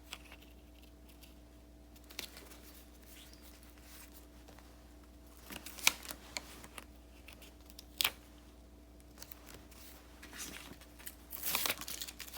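Desk paper-craft handling sounds: scattered sharp snips and clicks with short paper rustles, loudest about six seconds in and again around eight seconds, and a cluster of rustling near the end. A faint steady hum runs underneath.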